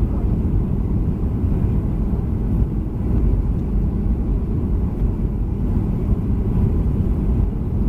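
Steady low rumble of engine and airflow noise heard inside the passenger cabin of a Boeing 737-300 airliner.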